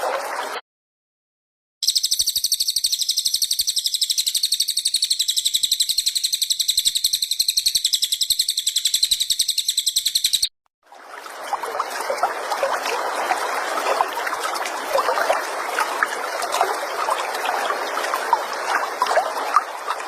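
Recorded songbird training calls in abrupt edited segments. A very high-pitched rapid trill of about ten pulses a second runs for about eight seconds, with a dense trickling, babbling chatter before it and after it.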